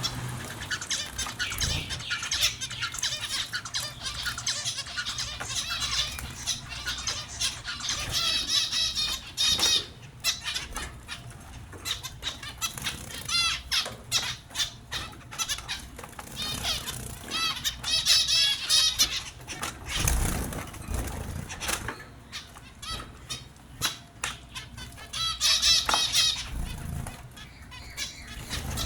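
Small pet finches chirping in quick runs of high notes, with bursts of wings fluttering and splashing as they bathe.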